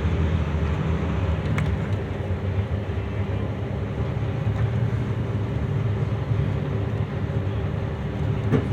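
A steady low rumbling noise with a faint steady hum running through it.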